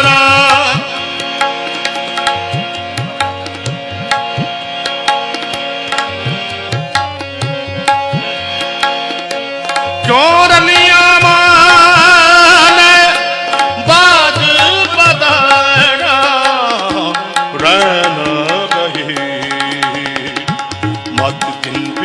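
Gurbani kirtan music: tabla playing a steady rhythm under held harmonium chords. About ten seconds in, a wordless sung line with strong vibrato comes in for several seconds, then the instruments carry on.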